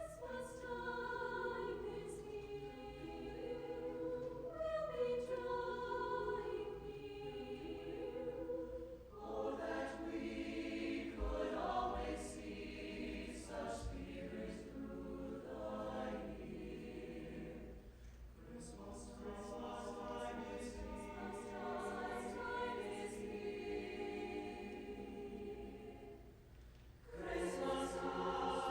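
High school choir singing in harmony, phrase after phrase, with a short break near the end before the next phrase begins.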